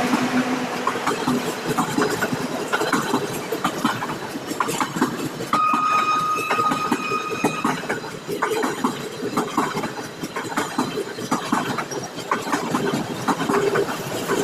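Express train's coaches running past at speed, wheels clattering over the rail joints in a continuous rattle of clicks. A steady high tone sounds for about two seconds midway through.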